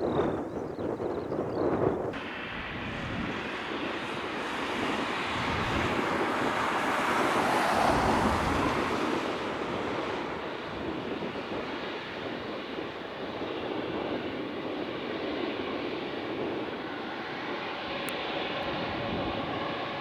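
Jet airliner's engines roaring as it passes the runway, swelling to its loudest about eight seconds in, then easing to a steadier, fainter roar. In the first two seconds, gusts of wind buffet the microphone.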